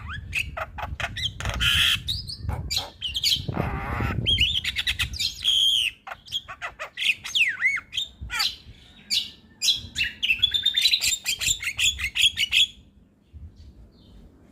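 Javan myna (jalak kebo) singing a fast, varied chatter of whistles, clicks and harsh squawks, which stops abruptly near the end.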